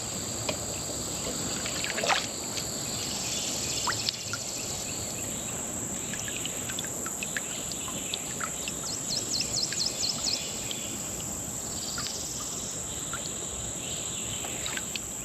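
Steady high-pitched insect chorus of summer crickets, with scattered short clicks and a quick run of about eight chirps about nine seconds in.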